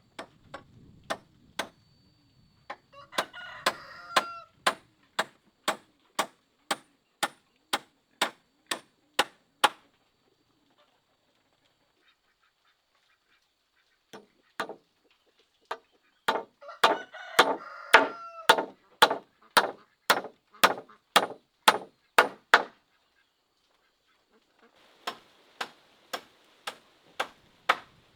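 Runs of sharp knocks at a steady pace of about two a second, like rhythmic hammering or chopping, with a pause in the middle. A rooster crows twice, a few seconds in and again about halfway through.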